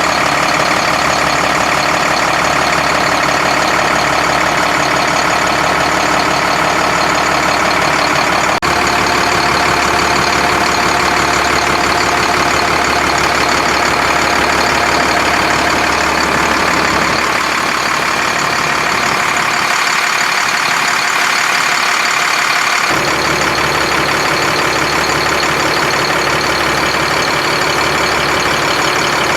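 Volvo FL6 truck's D6A six-cylinder diesel engine running steadily, with a single click about nine seconds in. Its deepest tones drop away for a few seconds past the middle, then return.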